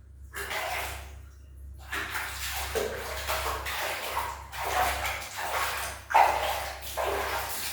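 A kitten meowing loudly over and over, in a string of cries, as it protests being bathed.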